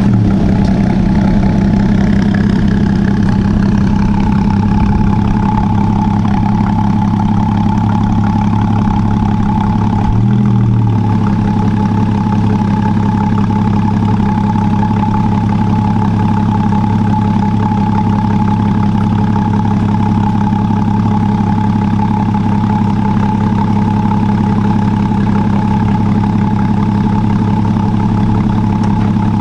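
Car engine idling steadily, with a brief small blip of revs about ten seconds in.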